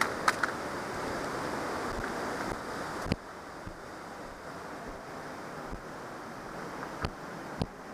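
Steady rushing of a glacial river and waterfall. A few sharp knocks sound through it, and the rushing drops a little about three seconds in.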